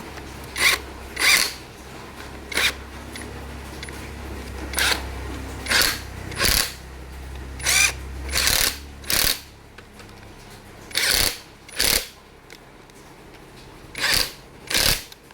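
Ratchet wrench working a bolt on a Nissan VQ V6's timing end in about a dozen short, irregular strokes, turned by hand rather than with an impact gun. A low steady hum runs underneath and fades about nine seconds in.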